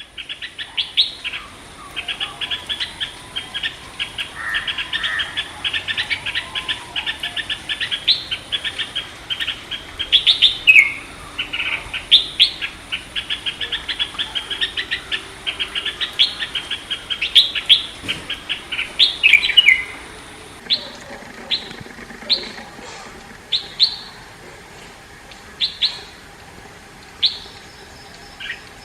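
Red-whiskered bulbul calling: a fast, busy run of sharp chirps and short sweeping notes for about twenty seconds, then thinning out to single notes every second or two.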